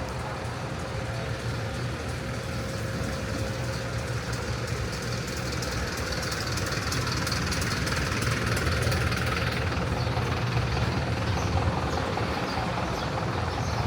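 Road traffic: a motor vehicle's engine running with a low rumble, growing somewhat louder in the latter half.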